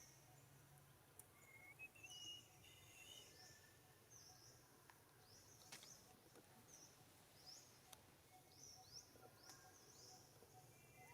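Faint outdoor ambience with a small bird repeating short, high chirps about once or twice a second, and a few whistled notes near the start.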